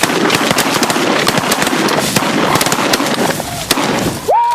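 A rapid volley of shotgun fire from several hunters, a dense run of cracks over a rough noise. Near the end, a single falling call from a bird or a goose call.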